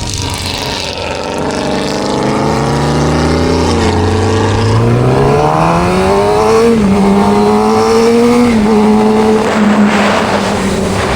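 Suzuki GSX-R600 sport-bike inline-four engine accelerating, its pitch climbing steadily for about six seconds, dipping briefly, then holding steady. Near the end the engine tone fades under wind and road rush.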